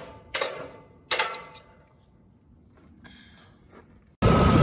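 Hand tools striking the steel of a hay rake's tooth and collector bar: three sharp metal clanks that ring briefly, the last about a second in, then a few faint knocks. Near the end it cuts suddenly to a loud, steady rush of wind noise.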